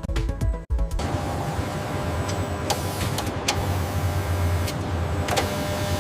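Steady mechanical hum of factory machinery with a few sharp clicks, coming in as intro music cuts off about a second in.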